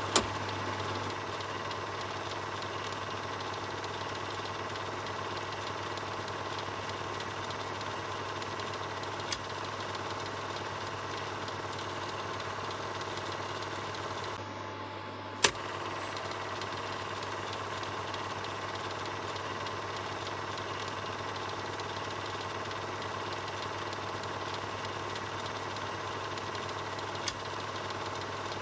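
Film projector running steadily: a continuous low mechanical hum with the fast, fluttering clatter of the film transport. A few sharp clicks sound over it, the loudest about halfway through.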